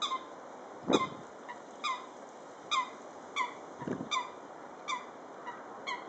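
A bird repeatedly calling a short note that falls in pitch, about once a second, around eight times. Two low thumps break in, the louder about a second in and another near four seconds.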